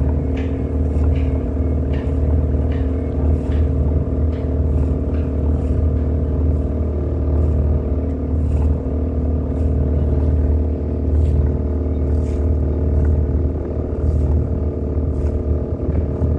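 Tour boat's engine running steadily, a deep even drone, with faint irregular clicks over it.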